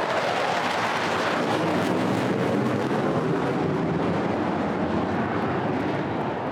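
Low jet aircraft flyover: a loud, steady roar that swells about a second in and eases a little near the end.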